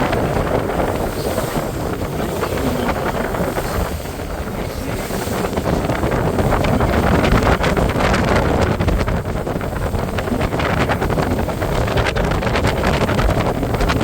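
Wind buffeting the microphone aboard a moving boat, over steady water and boat noise, with crackling gusts in the second half.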